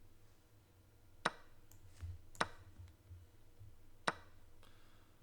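Three sharp, short clicks spread over a few seconds as moves are played in an online chess game, over a faint low hum.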